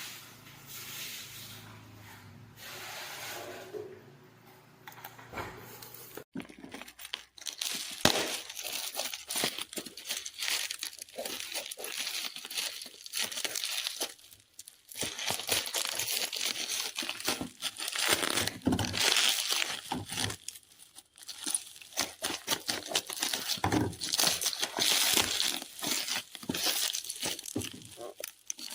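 Crinkling and tearing of packaging, handled in irregular rustling bursts that grow louder about six seconds in.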